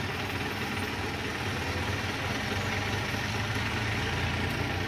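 Car engine idling steadily, a low, even hum heard from inside the cabin.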